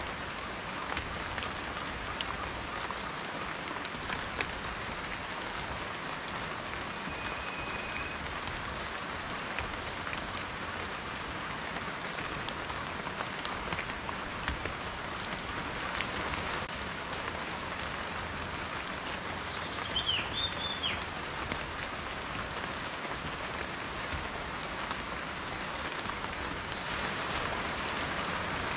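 Steady rain falling, with individual drops ticking out of the hiss. About two-thirds of the way through, a short chirp sounds over it.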